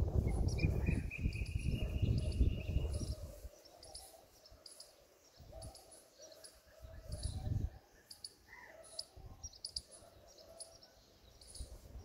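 Small birds chirping over and over in short high notes, with one longer whistled note early on. A low rumbling noise dominates the first three seconds and returns briefly around seven seconds.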